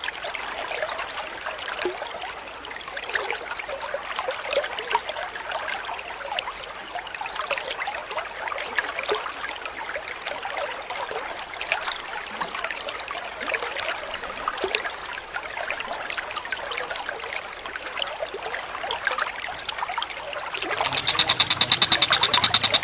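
Trickling, flowing water, steady and even. About two seconds before the end, a bird starts a loud, very fast rattling call of evenly repeated notes.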